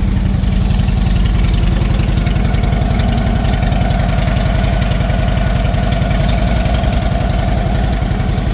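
2010 Harley-Davidson motorcycle's V-twin engine idling steadily with an even, pulsing beat.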